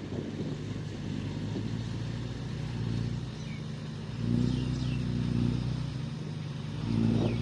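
Crawler bulldozer's diesel engine running under load, working harder about four seconds in and again near the end.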